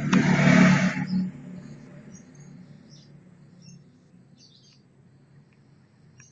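A loud rustling burst for about the first second, then faint, short, high bird chirps over a low steady hum.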